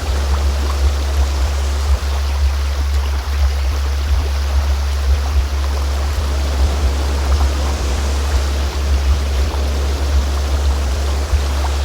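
A deep, steady, unwavering tone, the loudest part of the sound, under the even rush of a flowing stream. It is a synthesized sound-healing frequency laid over a water recording.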